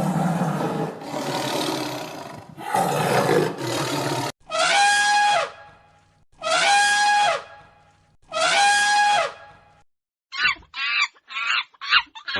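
Animal calls: a rough, noisy roar lasting about four seconds, then three long pitched calls of even pitch spaced about two seconds apart, then a quick run of short calls near the end.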